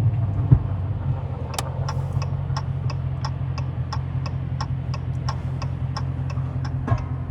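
Straight-piped 6.4-litre Hemi V8 of a 2020 Dodge Charger Scat Pack running at a low, steady drone while cruising. From about a second and a half in, a regular ticking runs over it, about three clicks a second.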